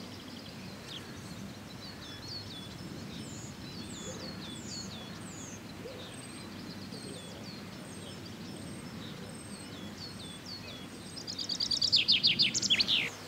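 Wild birds singing: a run of short, high, falling chirps throughout, then a louder rapid trill of quick falling notes near the end, lasting about a second and a half. A steady low rumble of outdoor background noise lies underneath.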